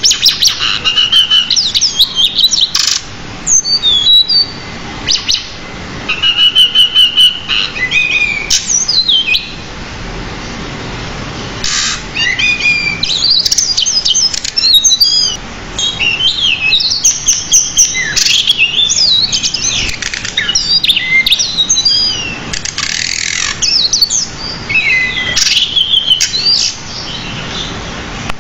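Pied bushchat (decu) singing a long, varied song of rapid chirps, trills and whistled pitch sweeps, full of mimicked phrases, with only brief pauses.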